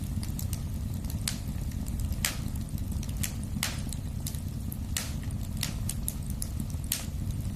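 Wood fire in a fireplace crackling: irregular sharp pops and snaps, one to three a second, over a steady low rumble of the burning flames.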